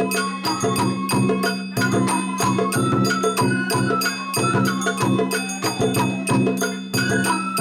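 Japanese traditional festival music: a high melody of held notes over a steady beat of percussion strikes and a held low tone.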